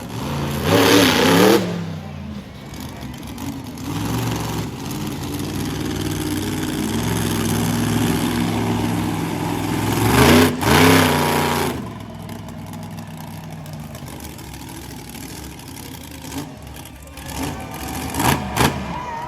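Monster truck engine running, revved hard twice: once about a second in and again for a couple of seconds around the middle, with steady lower running between. A few sharp knocks come near the end.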